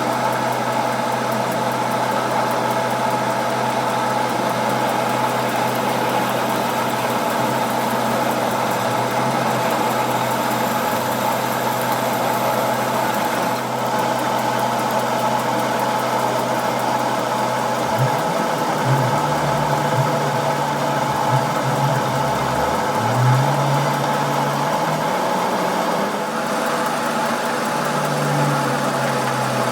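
A machine motor running steadily, its low hum wavering in pitch in the second half.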